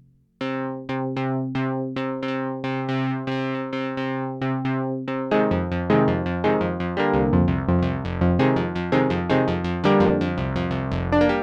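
Sequential Circuits Prophet-5 Rev 2 analog synthesizer playing a bright, plucky patch in a steady pulse of repeated short notes. From about halfway through, a bass line and fuller chords join in.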